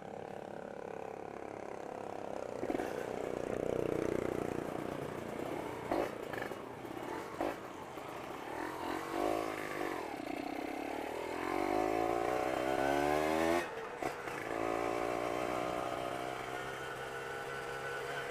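Two-stroke Kawasaki Ninja R motorcycle engine revving and accelerating. Its pitch climbs several times, drops sharply about 14 seconds in, then runs steadier, with a few sharp knocks early on.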